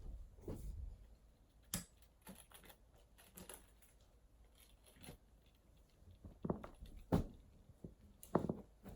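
Faint handling noise: scattered small clicks and taps with soft rustling, as of small objects being picked up and set down, with a few sharper knocks about two seconds in and again near the end.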